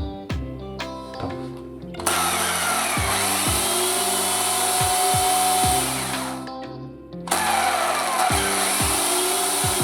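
Stihl MSE 141 C corded electric chainsaw switched on, its motor and chain running at full speed; it winds down around six seconds in and starts again about a second later. Background music with a steady beat plays underneath.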